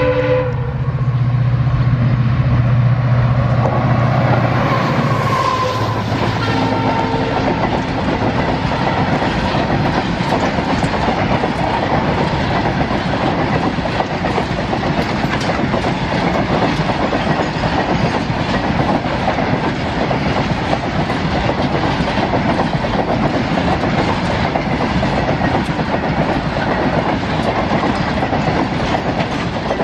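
Diesel-hauled train passing close. The tail of a horn blast ends at the start, the locomotive's engine drone runs for the first few seconds, and then comes a steady rattle and clatter of the carriages' wheels over the rail joints.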